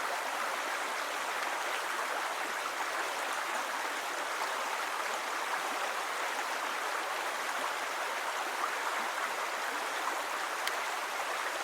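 Steady rush of flowing stream water, an even hiss without breaks.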